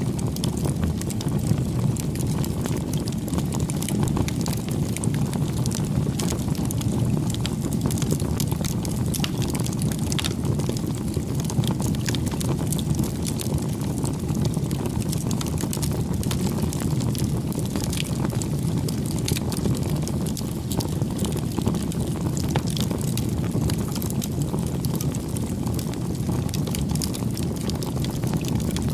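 Wood campfire burning: a steady low rumble of flames with frequent small crackles and pops.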